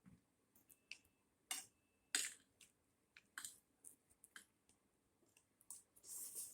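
Faint eating sounds at a table: scattered soft clicks and taps, the sharpest a little over two seconds in, and a short hiss near the end.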